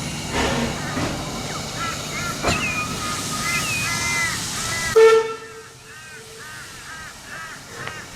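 Steam hissing from the C17 steam locomotive, then a short, loud whistle blast about five seconds in. After the blast the hiss falls away and birds keep calling with repeated chirps.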